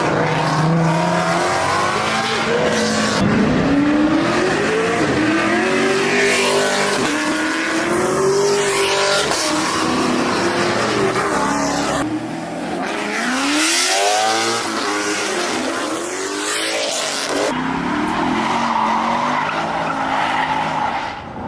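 Car engines revving hard, their pitch climbing and dropping repeatedly as they accelerate, with tire squeal and the hiss of spinning tires from burnouts. The sound changes abruptly about 3, 12 and 17 seconds in as one car gives way to another.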